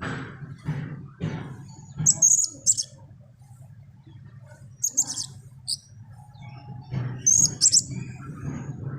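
Blue-crowned hanging parrot giving short, very high, shrill chirps in three brief bursts a couple of seconds apart.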